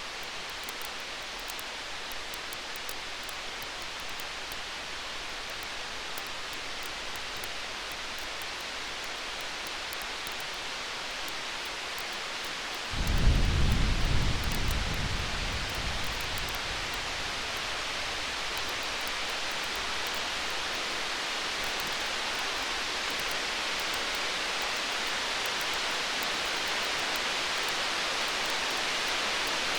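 One low rumble of distant thunder, starting suddenly about 13 seconds in and dying away over about three seconds, over a steady hiss with a faint crackle of campfire.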